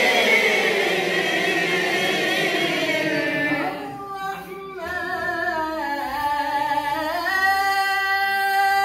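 Several voices chanting a melodic recitation together. From about four seconds in, a clearer line carries on alone in an ornamented melody, rises, and holds one long note that breaks off sharply at the end.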